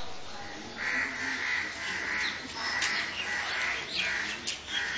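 Birds calling: a run of harsh, repeated calls starting about a second in, with short high chirps scattered through.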